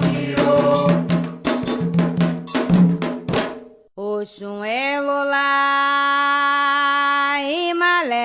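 Ritual drums and percussion playing, with chant underneath, for about three and a half seconds, then fading out. After a brief gap a single voice comes in, holding one long sung note with a small change of pitch near the end.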